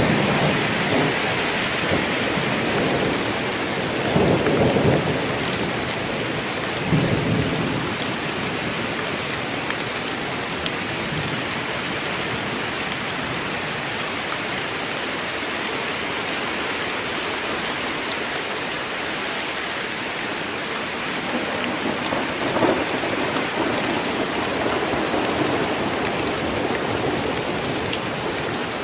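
Rainstorm: steady, even rain hiss, with low rumbles of thunder about four and seven seconds in and again a little past twenty seconds in.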